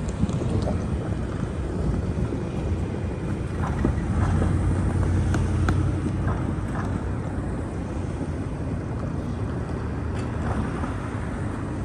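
Metra commuter train rumbling steadily through the station, with a few sharp clicks from the wheels in the middle and wind buffeting the microphone.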